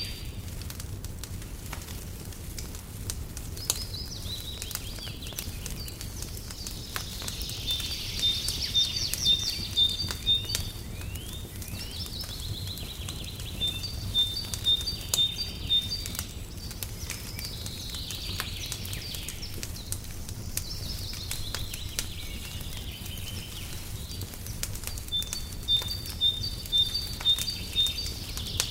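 Wood fire crackling in a fireplace with irregular sharp pops over a low steady rumble, while songbirds sing outside in repeated phrases of quick high notes and falling sweeps every few seconds.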